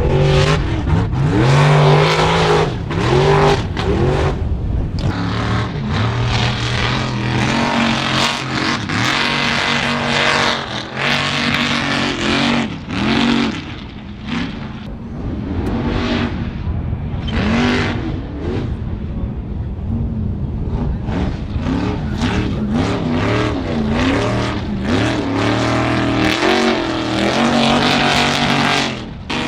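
Off-road mud truck engines revving hard, their pitch climbing and dropping again and again, with many short sharp noises mixed in.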